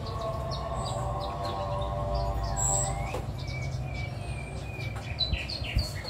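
Small birds chirping in short, repeated calls over a steady low hum, with a steady droning tone under the first half.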